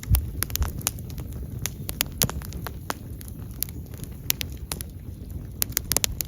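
Wood fire crackling: irregular sharp pops and snaps over a low rumble.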